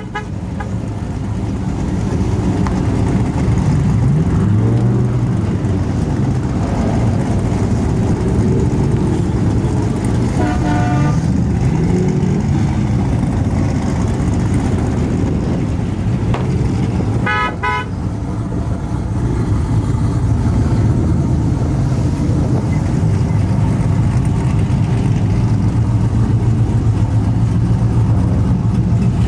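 Truck engines running and revving up and down, with short horn honks about ten seconds in and again at about seventeen seconds.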